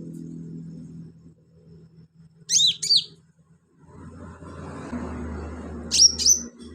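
Sunbird giving sharp, high chirps that sweep steeply down in pitch: a quick run of three about two and a half seconds in and two more near the end, over a low steady hum.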